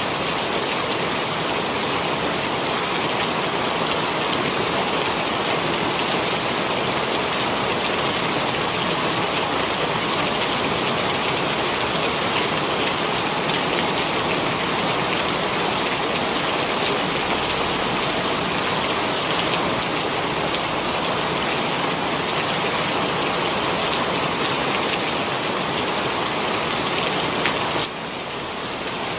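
Heavy rain pouring steadily, an even hiss of many drops. Its level dips slightly and suddenly about a second before the end.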